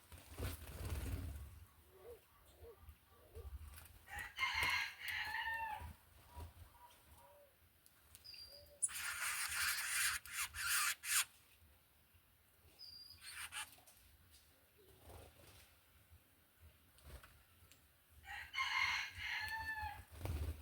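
Rooster crowing twice, once about four seconds in and again near the end, each crow lasting about two seconds. Between the crows there is a two-second rushing noise and a few short, high bird chirps.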